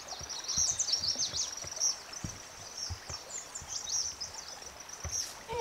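Songbirds chirping and trilling rapidly, many short high calls overlapping, over a soft outdoor hiss, with a few faint low thumps.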